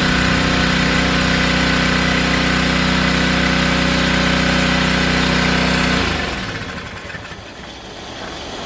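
Small gas engine of a Craftsman pressure washer running at a steady speed, then dying away about six seconds in.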